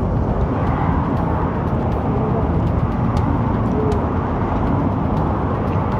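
Steady low rumble of a moving vehicle with wind noise, as from a motorcycle riding in traffic, with faint snatches of voices now and then.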